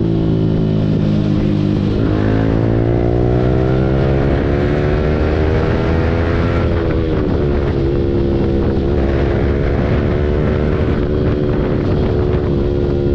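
Yamaha R15 V4 single-cylinder engine through an Akrapovic full-system exhaust, riding: the revs fall, drop at a gear change about two seconds in, then climb steadily before easing off past the middle and wavering under part throttle.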